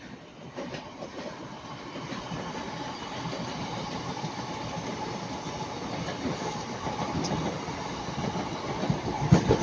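A train running past on the line: a steady rumble that builds gradually, with a faint steady hum coming in near the end.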